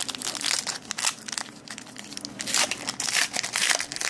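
Trading cards and their pack being handled close to the microphone. There is irregular crinkling and rustling, with short scrapes of card stock sliding against card stock.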